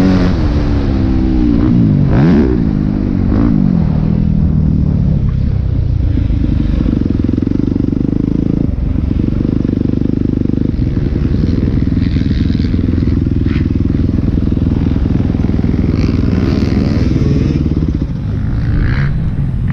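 Four-stroke dirt bike engine revving up and down for the first few seconds, then holding a steady note for about twelve seconds.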